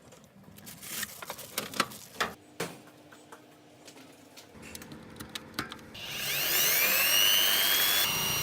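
Scattered clicks and knocks of things being handled, then about six seconds in an electric drill starts and spins up with a rising whine, running on steadily and loudly.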